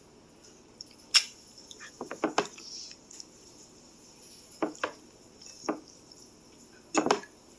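Eating utensil clicking and clinking against a bowl of noodles in scattered sharp knocks, the loudest about a second in and a quick cluster a second later.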